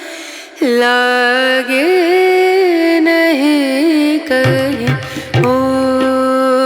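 Background song: a voice singing long, ornamented held notes, with a low beat joining about four seconds in.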